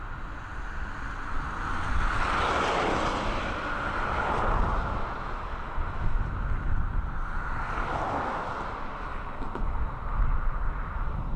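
Passing vehicle noise that swells twice, about five seconds apart, over a low wind rumble on the microphone.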